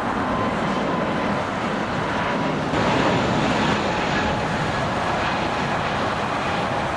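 Jet airliner engines running as a steady rumble with thin whining tones, getting louder about three seconds in.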